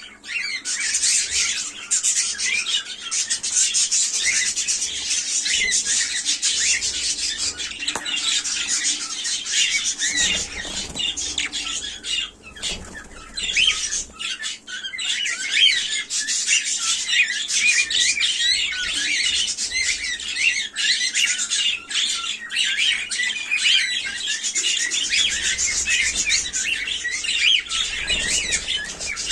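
Cockatiels chirping and squawking, a dense stream of short, quick calls with hardly a pause.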